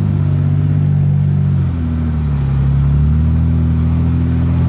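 Jeep engine running steadily under load as it crawls up a steep slickrock climb; the engine note shifts in pitch about two seconds in, then settles.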